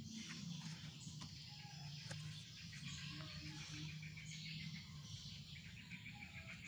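Small birds chirping and twittering, with a quick run of evenly spaced notes on one pitch about halfway through and again near the end, over a low steady hum.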